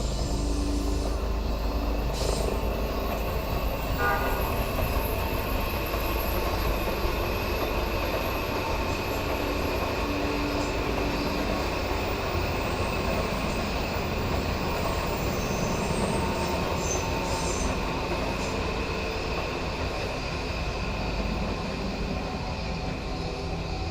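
Odakyu Line train running along the track, a steady noise of wheels on rails with a thin high tone running through it.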